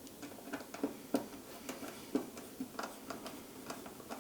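Light, irregular clicks and taps, a few a second, as parts of the resin wash station are handled and fitted back together.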